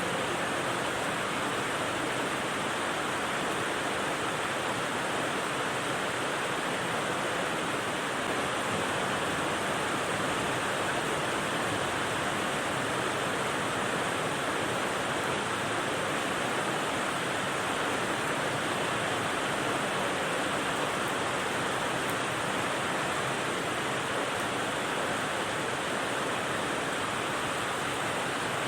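Steady rain white noise: an even, unbroken hiss with no separate drops or other sounds standing out.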